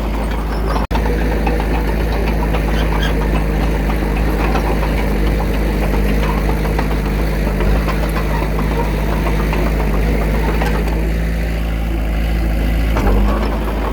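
Diesel engine of earthmoving machinery running steadily, with a rough, knocking tone. The sound breaks off for a moment about a second in.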